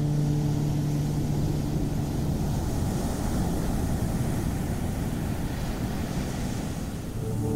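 Ocean surf: a steady rumbling wash of waves. A sustained musical drone fades out in the first two seconds and comes back just before the end.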